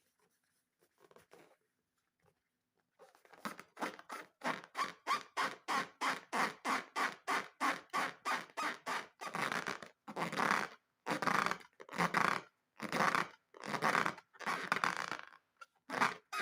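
Slime being squeezed and kneaded by hand, squelching in quick repeated strokes about two or three a second, which slow to longer, drawn-out squelches about once a second near the end.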